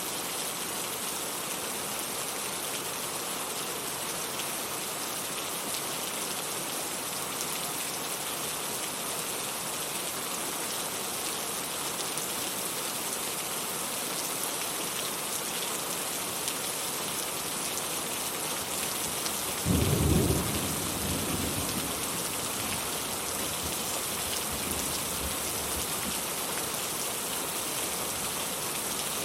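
Steady rain falling, with a sudden thunderclap about two-thirds of the way through that rumbles on for several seconds.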